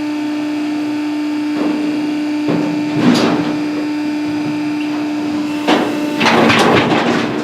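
Metal cattle chute and gates clanging and rattling in several bursts, the longest near the end, over a steady machine hum.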